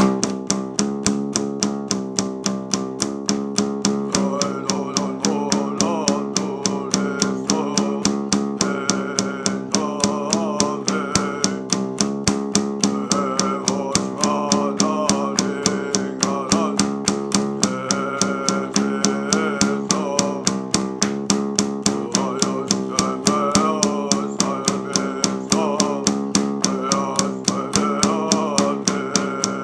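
Music: a guitar strummed in a steady, even rhythm of about four strokes a second, with a wavering melody line over the chords.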